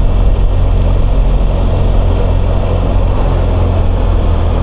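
BMW R1200GS flat-twin boxer engine running steadily under way, heard from the rider's position with steady wind and road noise.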